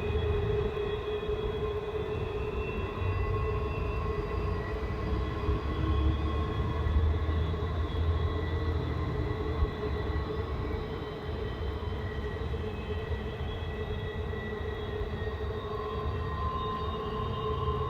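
Unexplained droning 'strange sound': a steady low rumble with several long, level tones layered above it that swell and fade.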